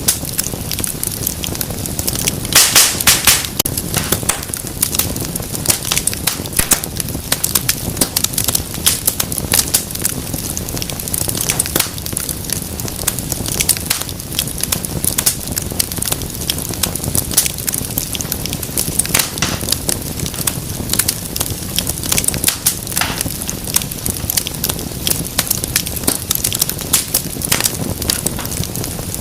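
Wood fire crackling and popping steadily over a low rumble of flames, with a brief burst of loud pops about three seconds in.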